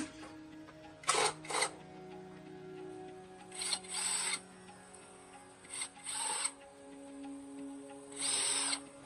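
Five short, hissing bursts of a workshop tool, each under a second long, with steady background music throughout.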